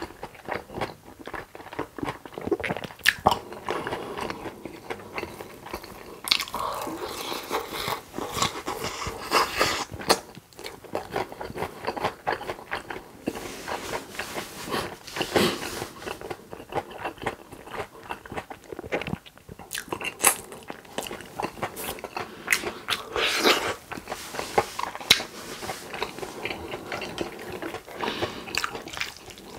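Chewing a mouthful of crunchy breaded, cheese-filled fried pork cutlet: many crisp crunches and crackles over wet chewing, going on throughout.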